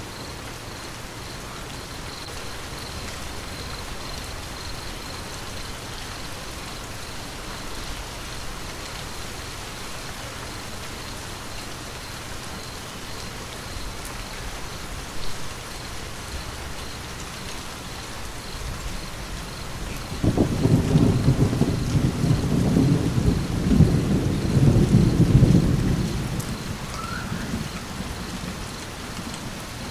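Steady rain falling, with a rumble of thunder about two-thirds of the way in that swells for several seconds and then fades away.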